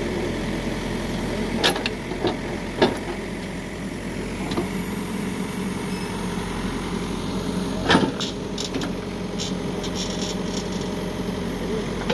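Heavy diesel engine running steadily at idle. Sharp knocks sound about two and three seconds in, and a louder one about eight seconds in, followed by a few lighter clattering knocks.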